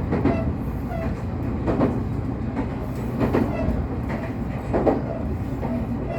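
Train running along the track: a steady low rumble with the clack of wheels over rail joints about every second and a half.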